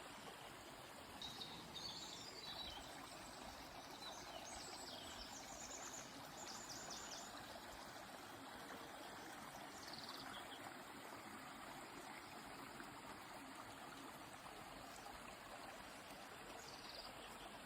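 River flowing with a steady rush of water, and small birds calling over it every few seconds, including a quick run of repeated high notes near the middle.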